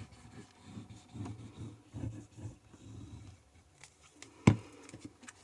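Card stock being handled and slid about on the desk, with low rubbing and brushing sounds, then a single sharp tap about four and a half seconds in.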